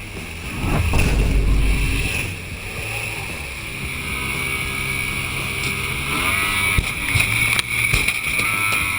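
A motorboat running on the water amid wind and water noise, with a heavy low rumble about a second in.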